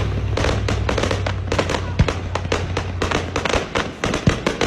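Fireworks crackling and popping in a rapid, irregular string, with a louder bang about two seconds in and another near the end. A low steady drone runs underneath and fades out about three seconds in.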